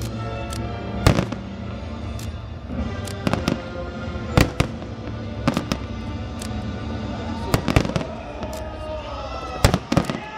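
Aerial fireworks bursting: a string of sharp bangs about a second apart, some in quick pairs, over music playing steadily.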